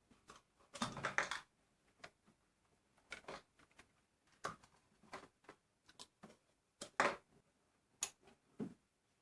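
Scattered light clicks, taps and rustles of hands handling small parts: an injector return hose being fitted to a collecting bottle.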